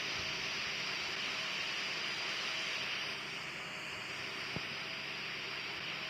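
Jet engines of an Airbus A340 on its landing approach, a steady hiss.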